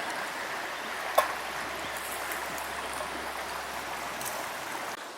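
Trout fillet and pepper cooking on a campfire: a steady sizzling hiss with the fire, and one sharp pop about a second in.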